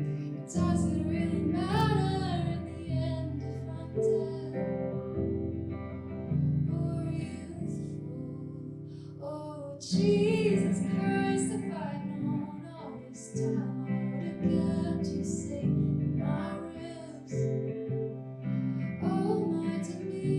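A live song: a voice singing wavering, drawn-out phrases over acoustic guitar.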